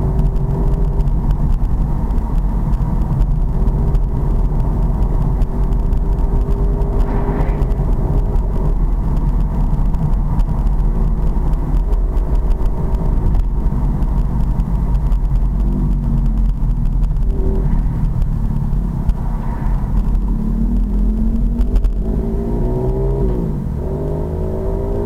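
Pit bike engine running under way on a ride. Its pitch rises and falls several times in the later part as the revs change.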